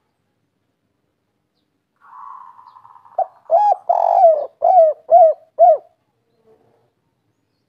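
Spotted dove (tekukur) singing one cooing phrase: a faint rolling note about two seconds in, then a run of about six short coos, the middle one the loudest and longest.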